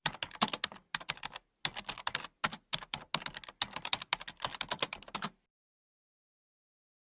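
Rapid, irregular keystrokes of typing on a keyboard, about five clicks a second, stopping about five seconds in.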